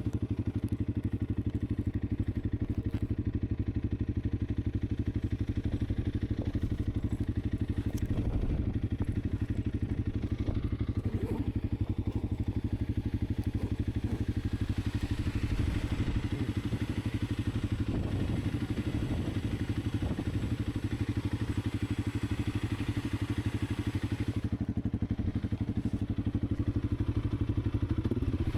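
Honda CRF300 Rally's single-cylinder engine running at a steady pace under way, with a rushing hiss that swells in the middle, from about halfway through to near the end.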